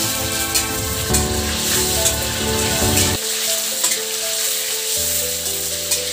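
Sliced onions and tomato sizzling in hot oil in an iron kadai, stirred with a metal spatula that clicks against the pan now and then. Background music with held notes plays along.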